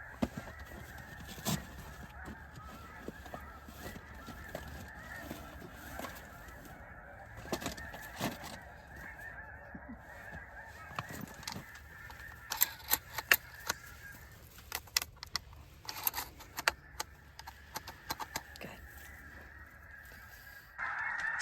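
A large flock of snow geese calling together, a steady clamour of many overlapping high honks, with scattered sharp clicks and knocks close by, thickest about two-thirds of the way through.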